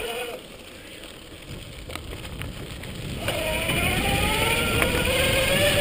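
Electric motor of a converted Schwinn S-25 mountain e-bike whining as the bike picks up speed, its pitch rising steadily from about three seconds in. Wind and tyre noise grow louder underneath it.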